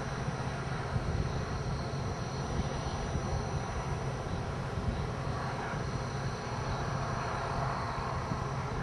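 Steady engine and road noise of a moving vehicle, a low hum under an even rumble with no change in pace.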